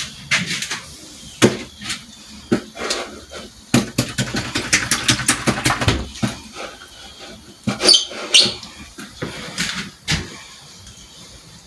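Irregular knocks, clicks and rattles of things being handled and moved about in a small space, thickest about four to six seconds in, with two short high squeaks near eight seconds.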